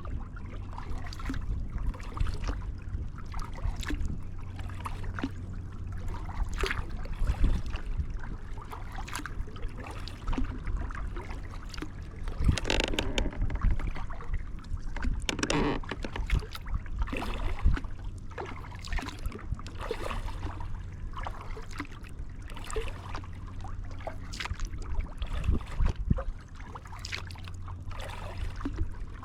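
Kayak paddle strokes dipping and splashing in river water every second or two, with water dripping and trickling between strokes, over a steady low rumble.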